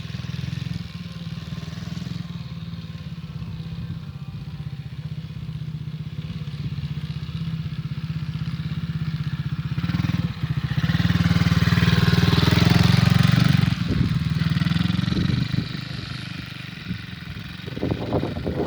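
Dirt bike engine running steadily, growing louder and harsher for about three seconds around the middle, then settling back down.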